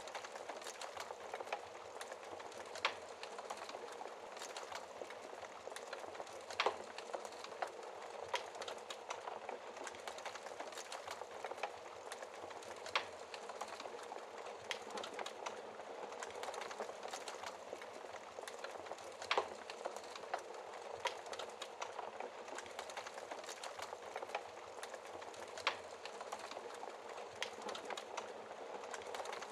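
Fire in a fireplace crackling: a steady hiss full of small pops, with a louder snap every few seconds.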